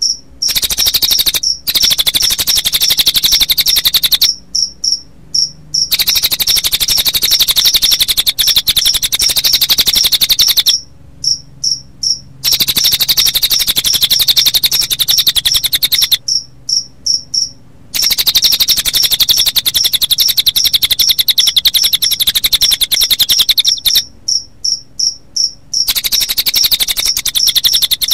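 Recording of cililin birdsong mixed with crickets chirping. Long, rapid, high trills alternate with runs of evenly spaced high chirps at about five a second.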